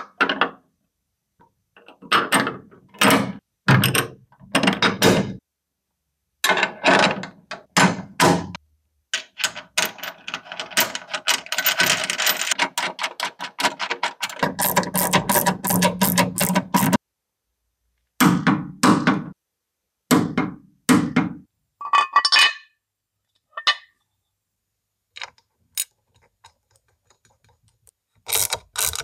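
A series of clunks, clinks and rattles from metal parts and hand tools being handled in a workshop, coming in short separate bursts with silent breaks between them and a longer stretch of clattering and scraping in the middle.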